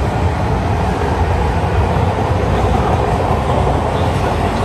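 MARTA rapid-transit train running past the platform: a loud, steady rumble of wheels on rail and running gear.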